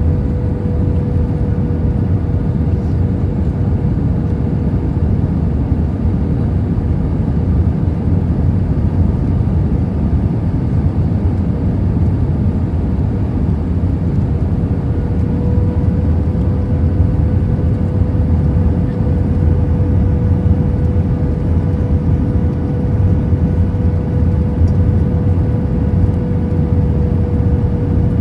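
Steady cabin noise inside an Airbus A319 airliner: a continuous low rumble of engines and airflow, with a faint steady hum on top.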